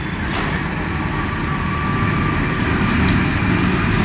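Steady low rumble of vehicle noise, like road traffic.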